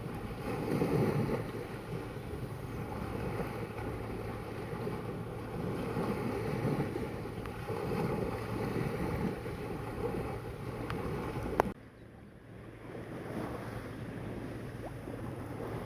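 Sea waves washing in surges every couple of seconds, with wind buffeting the microphone. A sharp click comes about three quarters of the way through, and after it the sound is quieter.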